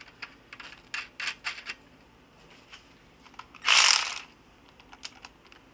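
Light metallic clicks and taps from hand tools and bolt hardware, with a short, loud rasping burst about halfway through.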